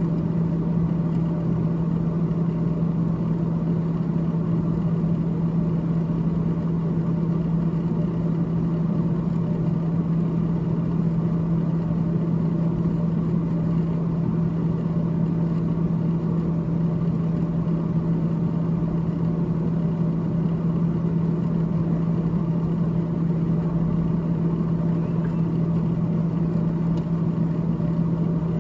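Freezer fan of a GE GTH18XCTZRBB refrigerator running with a steady, constant-pitched low hum.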